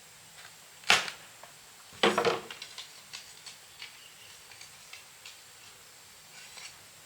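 Sharp knocks and clatter of hard objects being handled: one sharp knock about a second in, a louder burst of clatter around two seconds in, then a few faint ticks.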